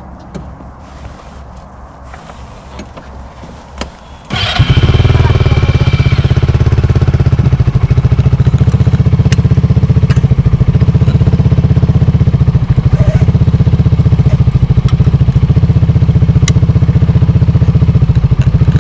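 Polaris RZR side-by-side engine starting about four seconds in, after a few clicks, then idling steadily and loudly.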